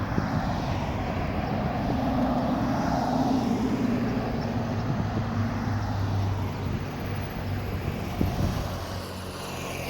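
Steady engine drone with a low hum that swells over the first few seconds and slowly fades toward the end.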